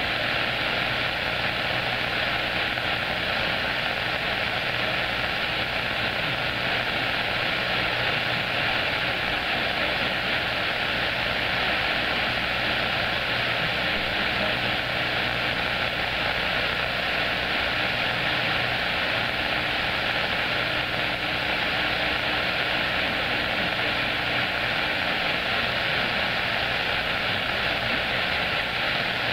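Open-channel static from a CB radio receiver tuned to 27.025 MHz: a steady hiss cut off above the upper mids, with a few faint steady tones running through it and no station transmitting.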